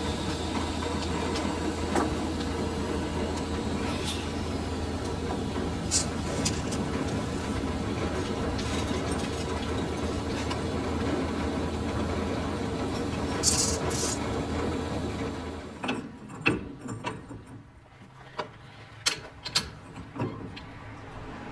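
Lathe running steadily, with a few sharp metallic clicks on top. About three-quarters of the way through, the machine's hum stops, and scattered metallic clinks and taps follow.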